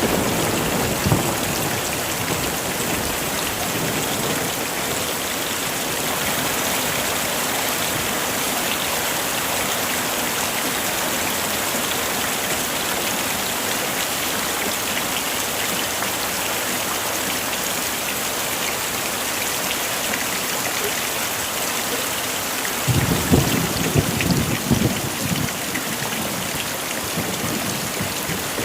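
Heavy rain falling steadily, with a low rumble of thunder near the end.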